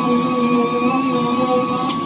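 Dual-action sander running steadily with a 600-grit disc on a cushion pad, sanding the clear coat of a car bonnet, together with the hum of a dust extractor. It is a steady high whine over a rushing noise.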